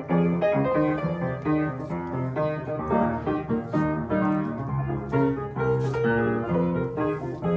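Solo piano playing a flowing piece of many short notes over a low sustained line.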